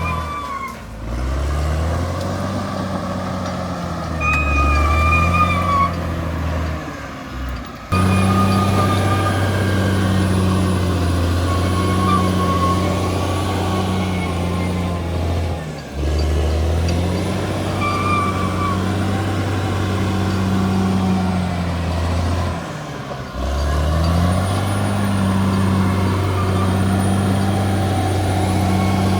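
Bulldozer's diesel engine running steadily with a deep hum, its pitch and load shifting, and the sound changing abruptly a few times. Short high squeals, as of the steel tracks, come and go over it.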